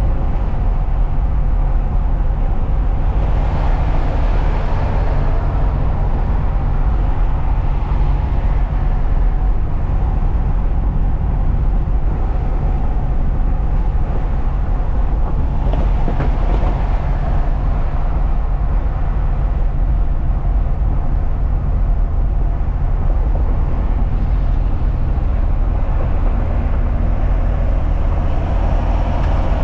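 A truck's engine and road noise heard inside the cab while driving: a steady low rumble, with a rushing hiss that swells briefly about three seconds in and again about halfway through.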